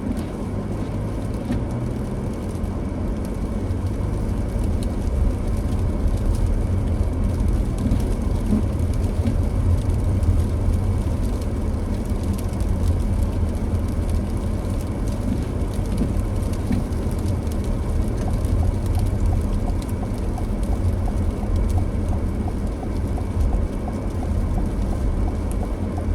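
Car driving: a steady low rumble of engine and road noise with a lighter hiss over it.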